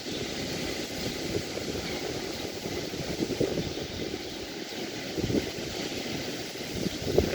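Beach ambience: a steady rush of surf and wind, with a few brief low buffets of wind on the microphone about five seconds in and again near the end.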